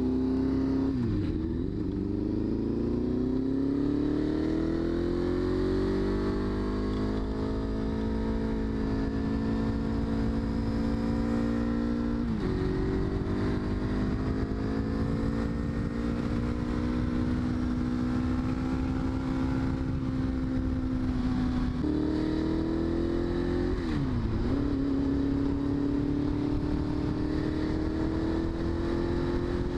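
Motorcycle engine under way at road speed, its note climbing slowly and dropping sharply at gear changes about 12 and 22 seconds in, with brief dips near the start and about 24 seconds in. A steady rush of wind and road noise runs underneath.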